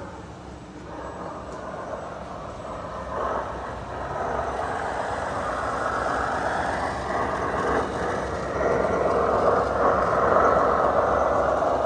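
Radio-controlled model construction trucks running: a steady whirring of small motors and gearing that swells and eases over a few seconds.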